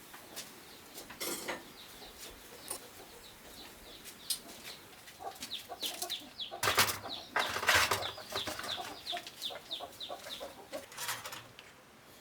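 Chickens calling with rapid short high chirps, several a second, from about five seconds in, over light clinks of bowls and chopsticks at a meal. A louder noisy clatter comes about seven seconds in.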